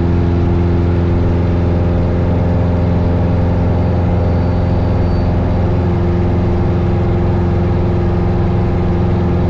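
A 1972 Cessna 172 Skyhawk's four-cylinder Lycoming engine and propeller at climb power during a go-around, heard as a steady drone.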